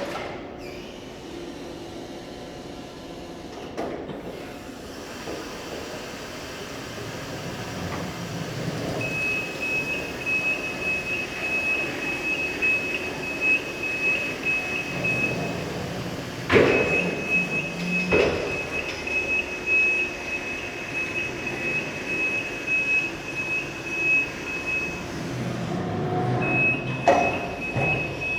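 Electric reach truck running with a steady motor hum, and a rapid high-pitched beeping warning alarm sounding in three long stretches. A few sharp knocks, the loudest about two-thirds of the way through.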